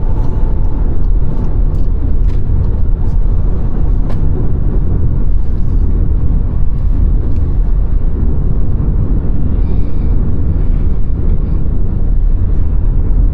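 Car driving along the road: a steady low rumble of road and tyre noise, with a few faint ticks in the first few seconds.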